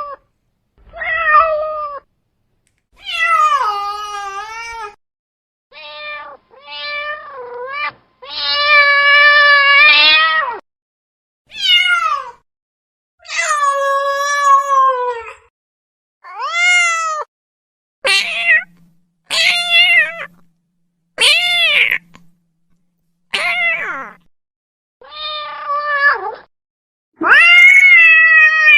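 A domestic cat meowing over and over, about fourteen separate calls with short silent gaps; some calls are short, others drawn out for a second or two with the pitch rising and then falling.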